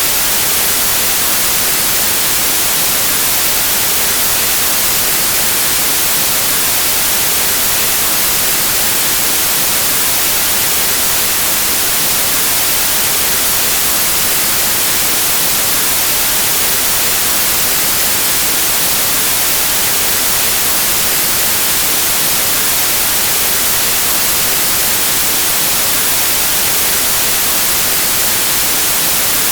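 Steady white noise: an even, unchanging static hiss, brightest in the high end.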